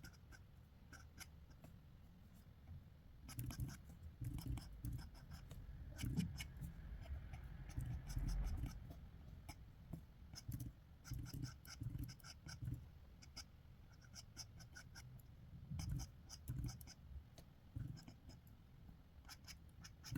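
Sketching strokes on paper: clusters of short, quick scratchy strokes with brief pauses between them.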